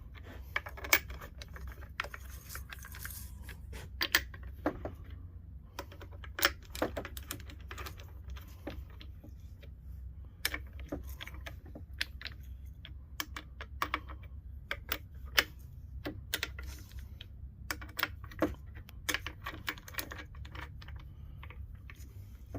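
Hand tools clicking and clinking on metal while the bolts on a Sure-Grip differential are tightened down: many irregular sharp clicks over a steady low hum.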